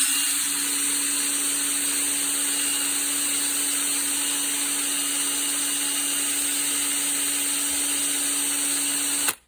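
A small power tool's motor running at one steady speed, with a dense grinding hiss as it works a small steel screw. It starts and cuts off abruptly after about nine seconds.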